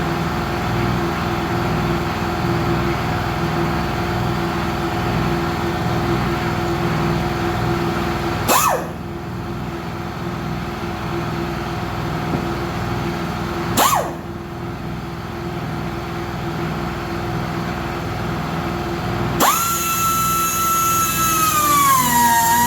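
A power tool running steadily with a constant whine, broken by a short sharp click twice. Music comes in near the end.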